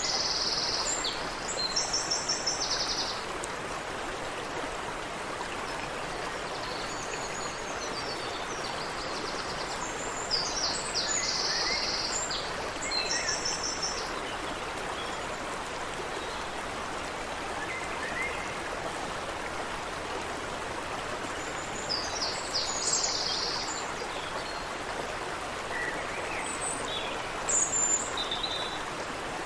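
Stream water running steadily over rocks, with songbirds singing short, rapid trilled phrases several times over the flow.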